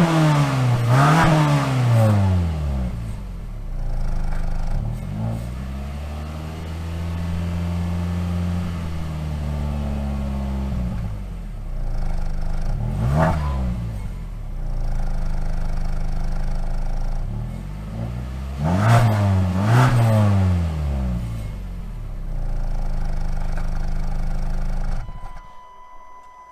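Mazda CX-5's 2.5-litre Skyactiv-G four-cylinder petrol engine being revved and settling back to a steady idle between: two quick blips, a slower rise and fall, a single blip, then two more quick blips. The engine sound cuts off sharply about 25 seconds in.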